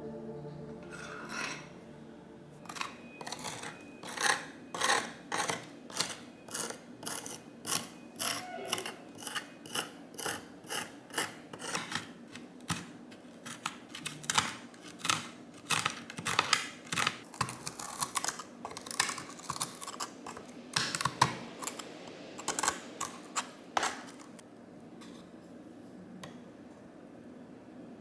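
Hand ratchet clicking in quick repeated strokes, about two a second, with some faster runs. It stops a few seconds before the end.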